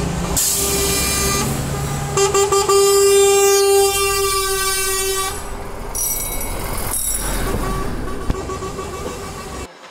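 Truck air horn blowing one long steady blast of about three seconds, with a rush of noise before it and fainter horn tones after.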